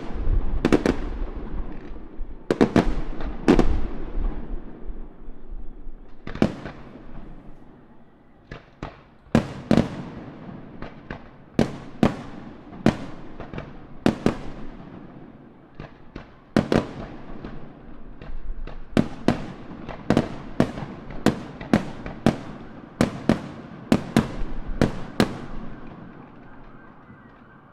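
Fireworks display: aerial shells bursting, sharp bangs each followed by an echo. The bangs come thick at first, pause for a few seconds, then go on in a long run of about one or two a second before thinning out near the end.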